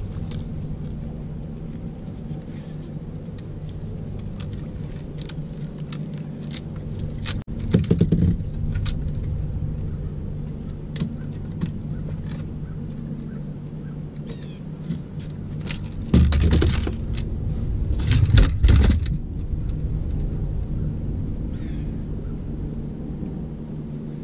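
Boat outboard motor running steadily at low trolling speed, with scattered clicks, knocks and rattles of gear being handled in the boat, loudest about eight seconds in and twice more just past the middle.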